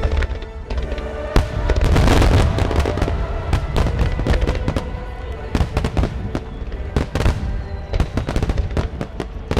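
Fireworks display finale: a rapid run of aerial shell bursts and crackling, with a heavy bang about a second and a half in and dense crackles near the end. Music plays steadily underneath.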